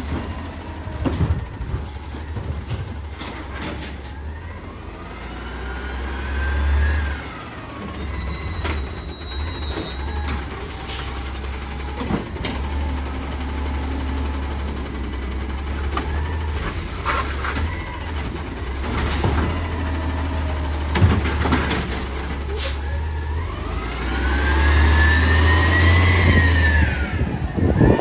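Peterbilt 320 garbage truck with an Amrep automated side-loader body running, with scattered knocks and clanks. Twice the engine revs up while the hydraulics whine rising and falling, the second time louder and near the end: the hydraulic arm working.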